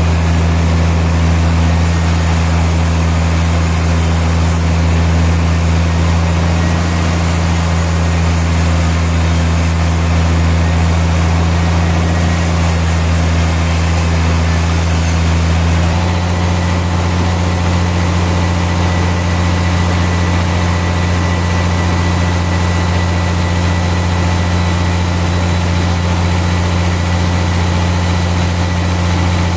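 Heavy sawmill machinery running with a steady, loud low drone; its tone shifts slightly a little over halfway through.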